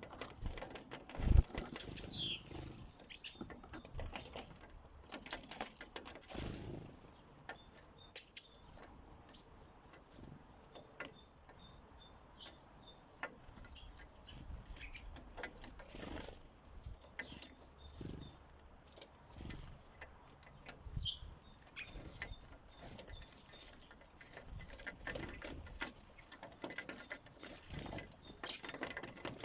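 Sparrows at a bird feeder: wings flapping, many small taps and pecks on the feeder, and short high chirps. Two louder thumps, about a second in and near eight seconds in.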